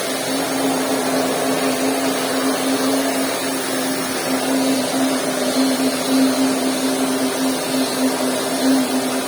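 Vacuum cleaner running steadily: an even motor hum over rushing air.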